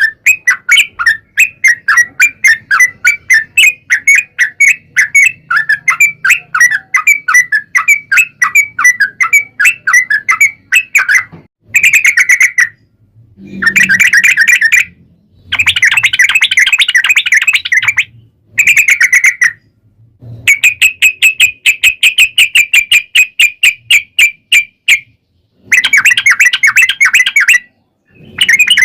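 Yellow-vented bulbul (trucukan) song on a lure recording: a long run of rapid repeated chattering notes, about four or five a second, then several denser trilled bursts of a second or more, each cut off by short, sudden silences.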